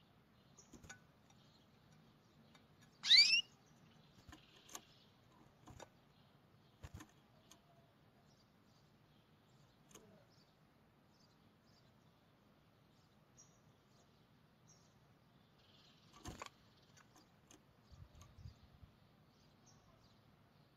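A single loud bird chirp of two quick rising notes, about three seconds in. Around it come faint scattered clicks and soft rustles of satin ribbon being handled.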